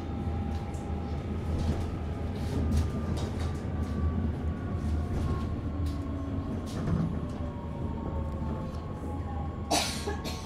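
Inside a Forchbahn metre-gauge electric train running on the rails: a steady low rumble, with faint motor whines drifting slightly down in pitch as it slows for the next stop. One sharp clack near the end.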